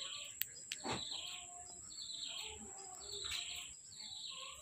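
A small bird chirping, repeating a short falling call about every three-quarters of a second.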